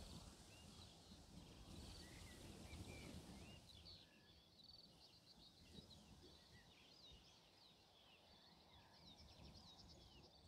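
Faint birdsong: many short, quick chirps and trills, over a low rumble of wind that eases after about four seconds.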